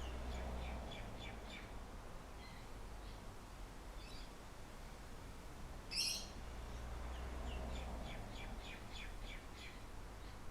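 A songbird singing outdoors: two quick trills of repeated high chirps, about five notes a second, and one sharp, louder call about six seconds in. Under it, a steady low rumble of breeze.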